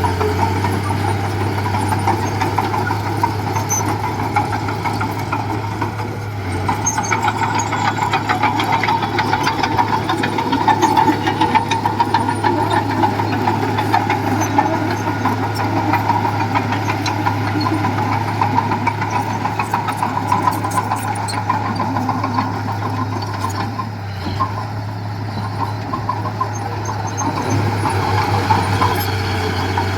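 Diesel engine of heavy earthmoving equipment running steadily with a rough, clattering sound, its load easing briefly a couple of times.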